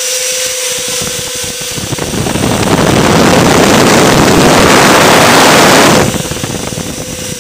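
Two electric ducted fans of an RC Lockheed L-1011 TriStar model, the wing-mounted No. 1 and No. 3, with a steady whine at low throttle. About two seconds in they spool up to a loud rush of air at about half throttle, hold it for some four seconds, then cut back sharply to the whine.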